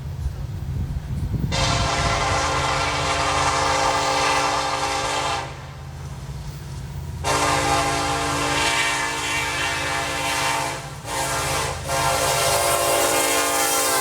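Diesel locomotive air horn sounding the grade-crossing signal: two long blasts, a short one, then a long one, over the low rumble of the passing train.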